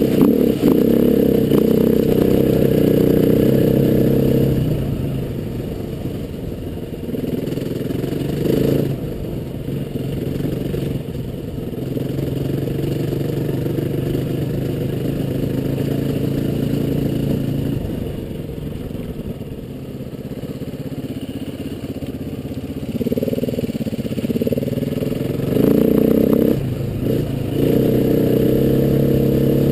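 Trail motorcycle engine running while ridden at moderate throttle: it runs louder at first, eases off to a lower, quieter run for most of the stretch, then picks up again with short bursts of throttle near the end.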